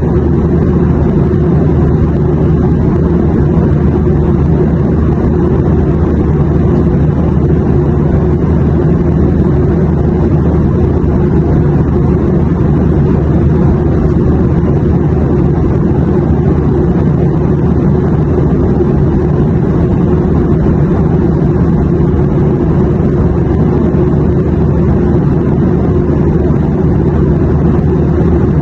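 Steady drone of an airplane in flight, a deep even rumble with a low hum that never changes.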